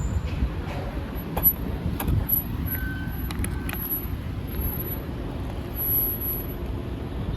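Road traffic going by on a city street, a steady low rumble, with a few sharp clicks and a brief steady beep about three seconds in.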